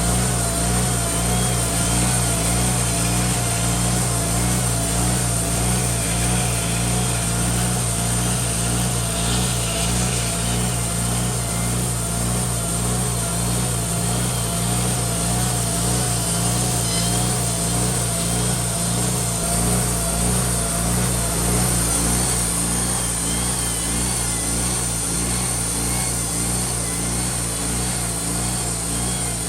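Sawmill's engine running steadily at an even speed, just started after sitting unused since spring. A faint wavering whine rides over it.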